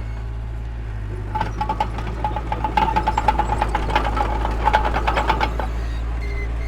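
Heavy diesel earthmoving machinery running with a steady low drone. From about a second and a half in, a run of rapid clanking and rattling lasts about four seconds and then eases off.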